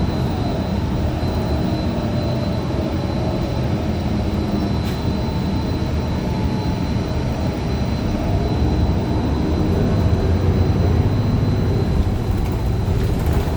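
Cabin noise of a 2015 Gillig Low Floor 40-foot bus under way, its Cummins Westport ISL G natural-gas engine and the road making a steady low rumble that grows slightly louder about ten seconds in. A faint steady high tone runs beneath it.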